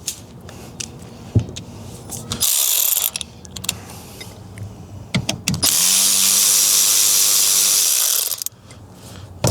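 Cordless driver with a T15 Torx bit spinning out the ignition lock cylinder's long retaining bolt: a short burst about two and a half seconds in, then a steady run of about two and a half seconds near the end, with a few small clicks of the bit and tool between.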